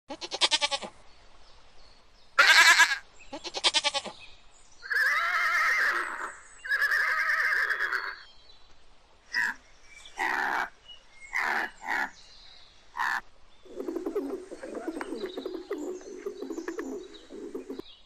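A goat bleating five times in the first eight seconds, each a loud, wavering call. It is followed by shorter, sharper calls from another animal and then a low, steady chattering noise in the last few seconds.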